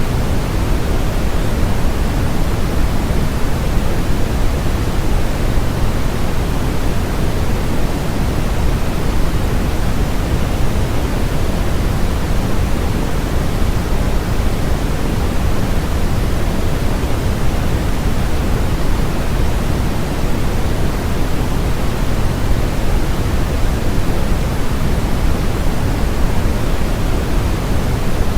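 Steady generated noise, even and unchanging, with more weight in the low end than in the highs, closer to pink noise than flat white noise.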